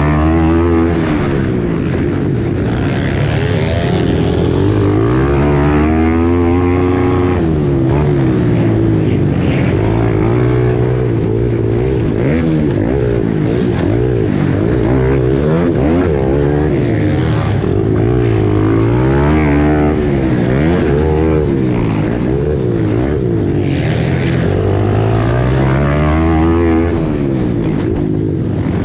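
Pit bike engines racing, the pitch climbing and dropping again every second or two as the throttle opens and closes.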